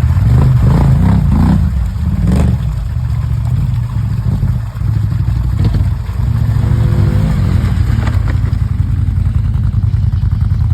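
Rushing snowmelt water, a loud steady rumble.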